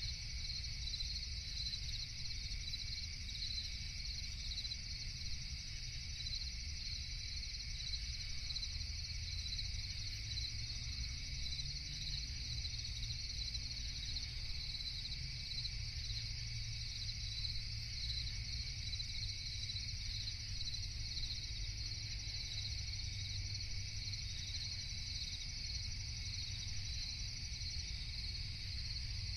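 Crickets chirping in a continuous high-pitched chorus, over a low steady rumble.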